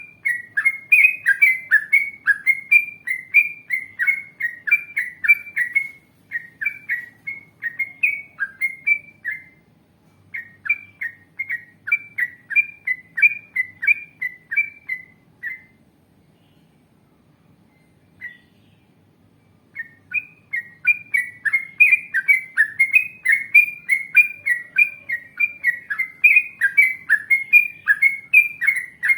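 Yellow-vented bulbul (trucukan) singing long strings of quick, bubbly whistled notes, about three a second, in phrases broken by short pauses. About two-thirds of the way through it falls silent for a few seconds, gives one lone note, then resumes with another long run.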